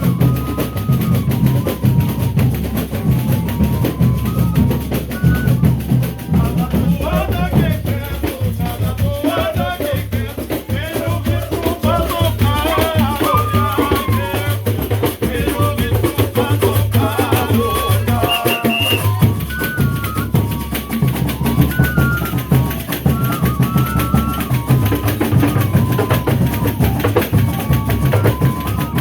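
Folia de Reis music: drums and percussion keeping a steady beat under a stepping melody line, with voices singing through the middle of the stretch.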